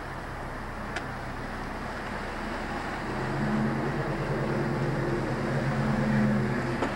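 A vehicle engine's low, steady hum, growing louder from about three seconds in and falling away just before the end, over a steady background rush.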